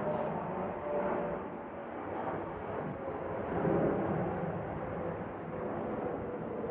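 Suzuki Address V100 scooter's two-stroke engine running steadily, a noisy drone with a faint wavering whine.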